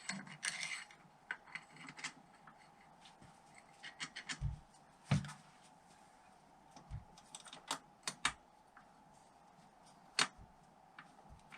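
Irregular light clicks and taps of tools and metal engine parts being handled, with a few louder knocks, over a faint steady hum.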